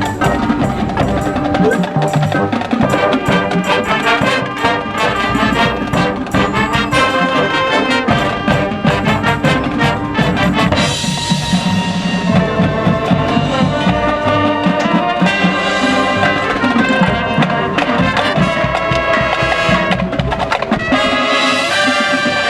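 High school marching band playing brass and percussion. The first half is full of rapid drum and percussion hits under the brass. About halfway through it moves into held brass chords.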